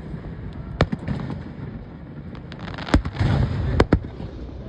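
Fireworks exploding: sharp booms about a second in and again twice near three and four seconds in, with smaller pops and crackling and a rumbling echo between them.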